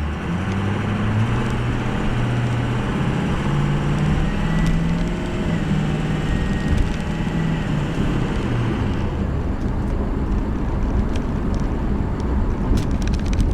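The 6.0-litre Powerstroke turbo diesel V8 of a Ford F350 Super Duty pulling the truck along the road, its engine note stepping up and down in pitch, over steady road and tyre noise. The higher road rush eases about nine seconds in.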